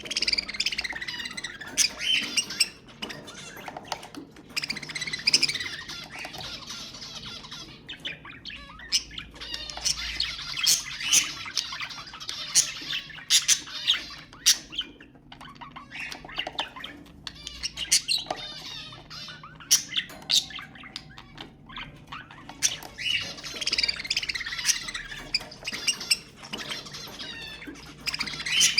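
Budgerigars chattering and warbling, a dense stream of chirps, clicks and squawks that comes in busy waves.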